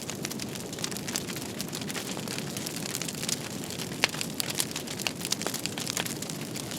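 Wood fire crackling, with many irregular sharp pops over a steady low rush; one pop about four seconds in is louder than the rest.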